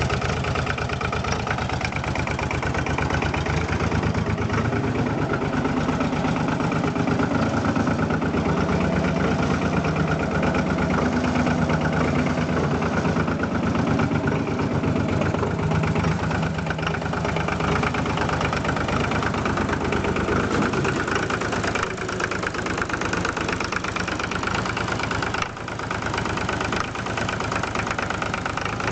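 Fendt Farmer 2 tractor's diesel engine idling steadily while still cold after a cold start at −15°C, with a brief drop in loudness late on.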